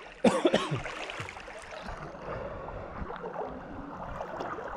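Stream water sloshing and splashing around people wading through it, with a brief loud burst, a voice among it, about a quarter second in.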